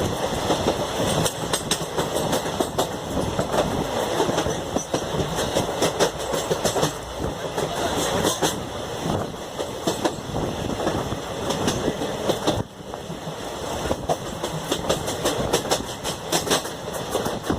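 Koyna Express passenger train running, its wheels clattering over the rails with many sharp clicks over a continuous rumble; the noise dips briefly about thirteen seconds in.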